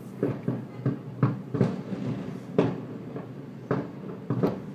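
Aerial firework shells bursting: an irregular run of booms, several close together at times, the loudest about a second and two and a half seconds in.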